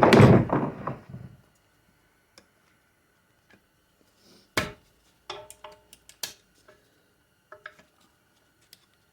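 Metal hand tools clinking against a 4L60E automatic transmission case as its 2-4 servo is worked loose: a loud clatter with some ringing at the start, then scattered sharp clicks and clinks with short pauses between them.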